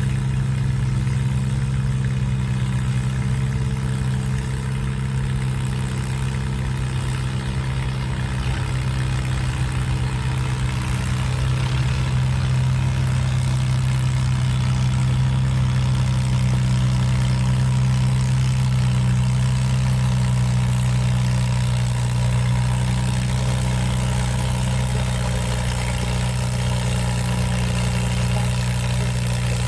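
Antique farm tractor engine running loud and steady at a constant speed, its pitch holding even with no revving.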